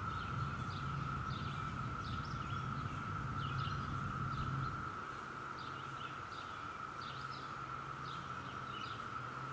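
Steady droning chorus of Brood X periodical cicadas in the trees, one even pitch, with small birds chirping over it. A low hum underneath drops away about five seconds in.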